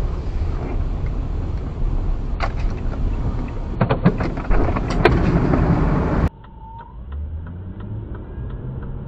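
Vehicle road and engine noise recorded from a car, with several sharp knocks in the first part. About six seconds in it cuts abruptly to a quieter recording of a vehicle's low steady hum.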